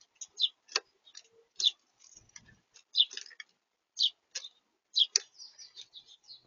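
Small birds feeding at a bird-feeder camera: an irregular run of short, sharp ticks and clicks of beaks pecking at seed and feet on the feeder, a few of them louder knocks.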